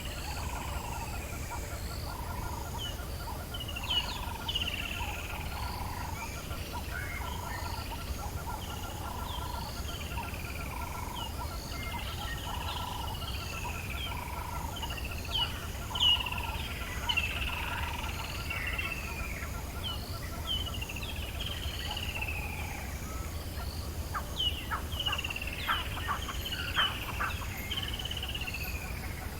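African bush dawn chorus: many birds giving short whistles that slide downward, over a low call repeated about once a second and a steady pulsing trill of frogs or insects. A quick run of sharp clicking calls comes in near the end.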